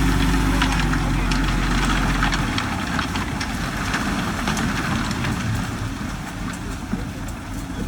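Diesel engine of a construction machine running steadily, with scattered clanks and clicks over it. Its deepest low drone drops away about two and a half seconds in.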